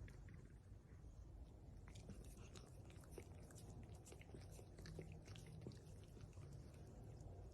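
A dachshund chewing, with faint scattered crunches and clicks over a low hum.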